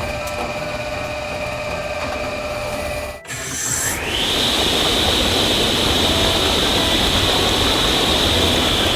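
Cartoon vehicle sound effects: a steady rumbling run with a faint hum. After a brief break about three seconds in, a high whistle rises and then holds over the rumble.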